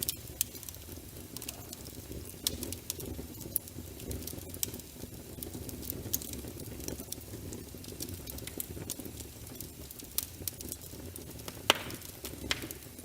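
Wood fire burning in a fireplace: a low steady rumble of flames with irregular crackles and pops, the loudest a sharp pop near the end.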